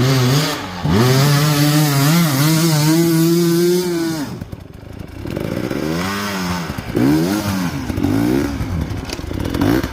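Off-road dirt bike engine revving hard: held at high, steady revs for about three seconds, briefly falling off near the middle, then blipped up and down over and over.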